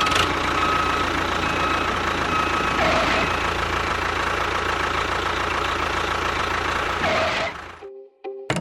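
A motor or engine running steadily with a faint high whine, cutting off suddenly about a second before the end. A few plucked music notes follow.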